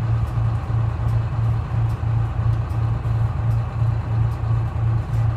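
Detroit Diesel 6V71 two-stroke V6 diesel of a 1970-71 GMC New Look bus running, a steady low drone that swells about twice a second.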